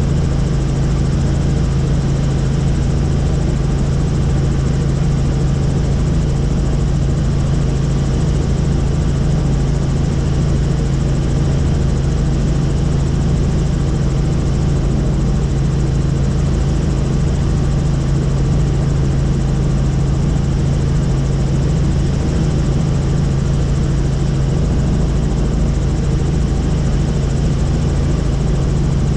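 Helicopter in flight: a loud, steady drone of engine and rotors with a strong low hum that never changes.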